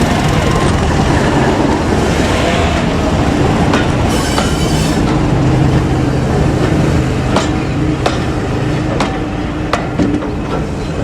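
A train running along the rails with a steady rumble, a brief high-pitched wheel squeal about four seconds in, and the wheels clicking over rail joints in the second half.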